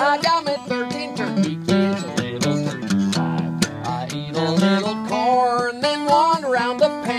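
Acoustic guitar playing a country-style tune with plucked and strummed notes.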